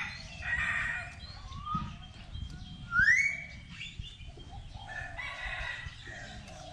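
Birds calling: a drawn-out call near the start and another about five seconds in, with a loud, sharply rising call about three seconds in.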